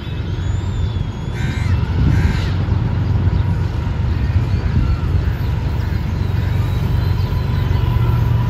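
Low rumble of a passing train, slowly growing louder. A crow caws twice about one and a half to two seconds in.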